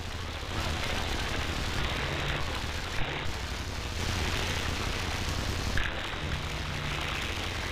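Radio receiver static between transmissions: a steady hiss of open band noise over a low hum.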